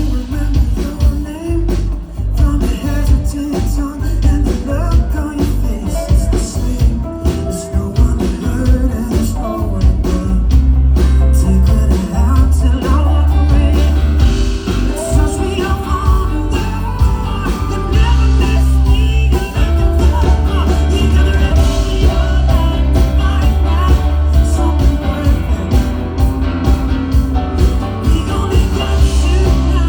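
Live rock band playing a song, with drums, a heavy bass line and a singing voice.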